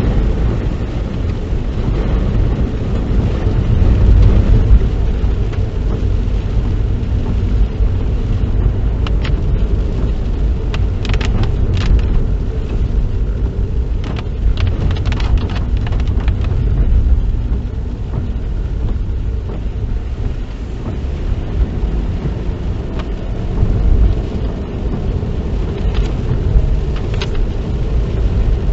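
Road noise inside a moving car driving in the rain: a steady low rumble of engine and tyres on a wet road. Scattered short clicks come mostly in the middle stretch.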